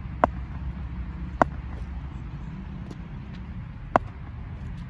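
Three sharp, single knocks, about a quarter second, a second and a half and four seconds in, over a steady low rumble.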